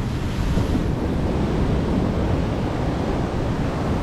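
Sea waves breaking and washing on the shore, a steady rushing wash, with wind buffeting the microphone.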